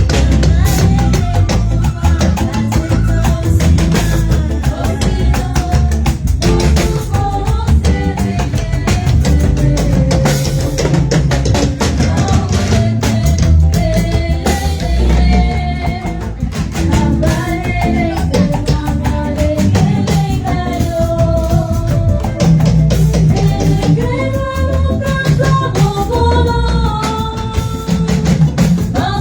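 Live band music with a drum kit, bass and singing voices, played loud through a sound system.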